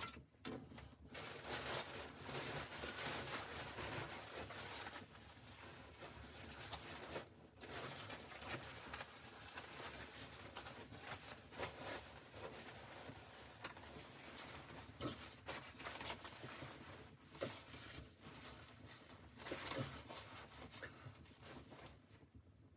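Rustling and scraping noise with scattered small clicks and knocks.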